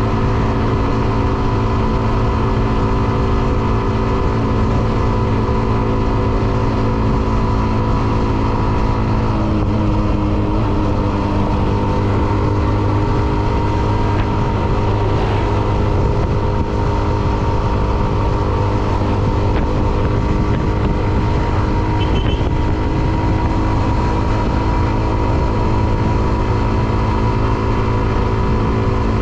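Hero Xtreme 125R's single-cylinder engine running steadily while riding at cruising speed, its pitch dipping slightly and recovering about ten seconds in.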